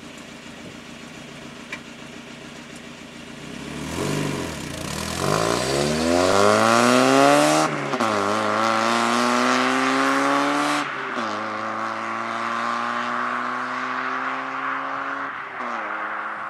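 Mazda MX-5 four-cylinder engine through a Postert aftermarket exhaust, running quietly at first, then accelerating hard with its pitch climbing steadily. About eight, eleven and fifteen seconds in the pitch drops sharply and climbs again: three upshifts.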